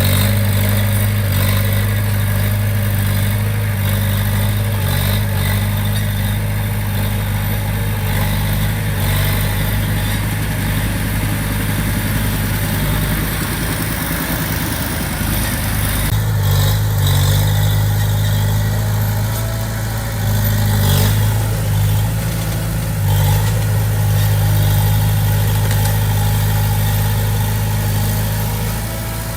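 Komatsu D20P crawler bulldozer's diesel engine running steadily, its note and level shifting a few times, about halfway through and again near the two-thirds mark.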